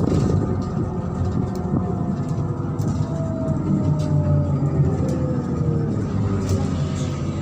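MAZ-103 city bus in motion, heard from inside: a steady engine drone and road rumble, with a whine that slides down in pitch from about three seconds in.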